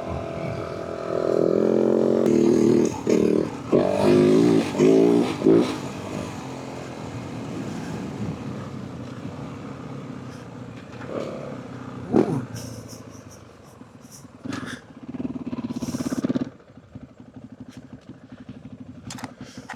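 Yamaha WR450F's single-cylinder four-stroke engine revving hard in surges while riding, then running steadier, with one more loud stretch near the end before dropping to a low putter.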